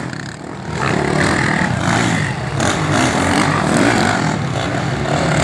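Motocross bike engines running and revving, their pitch rising and falling. The sound dips briefly at the start, then rises again under a second in.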